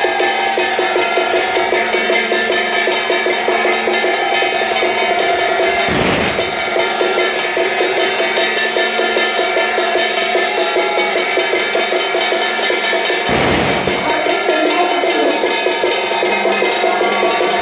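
Temple procession percussion band (drums, gongs and cymbals) playing a fast, steady beat with lingering ringing tones, and a heavier stroke about six seconds in and again about thirteen seconds in.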